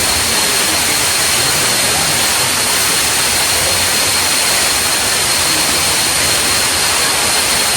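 Loud, steady rush of a waterfall's falling water, even and unbroken throughout.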